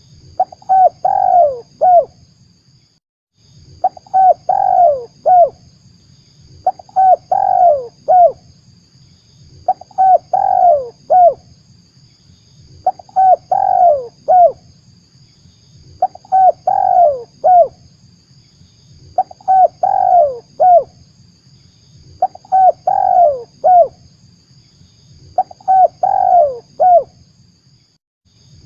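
Spotted dove (tekukur) cooing, a phrase of about four notes repeated every three seconds or so, played as a lure call for trapping doves. A faint steady high hiss runs underneath.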